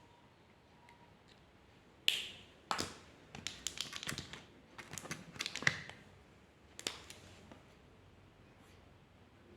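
A quick run of small, sharp clicks and taps between about two and seven seconds in, from drawing tools handled on a desk.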